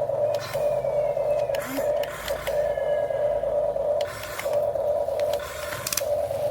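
Electric motors of an RC model excavator whining at a steady pitch, cutting out briefly several times, with short buzzy gear-noise bursts in the breaks as the machine changes movement.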